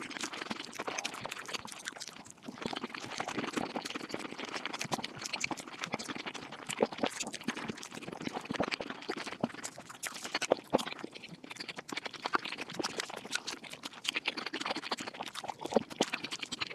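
Mukbang eating sounds sped up five times: chewing and mouth noises turned into a dense, rapid stream of crackling clicks.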